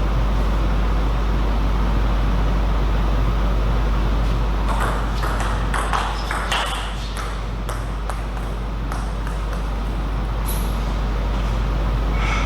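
Table tennis ball knocks: a quick flurry of sharp clicks from the ball on paddle and table about five to seven seconds in, then a couple of single knocks later, over a steady low hum.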